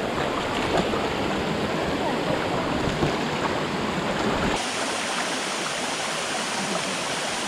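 Steady hiss of rushing waterfall water. About four and a half seconds in, the low rumble drops away and the sound turns brighter.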